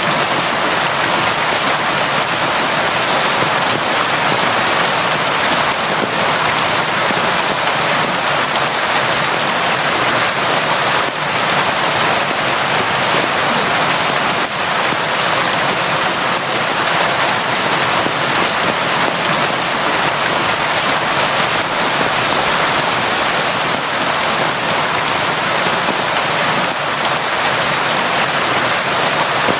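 Steady, constant heavy rain falling, a dense even hiss with no letup.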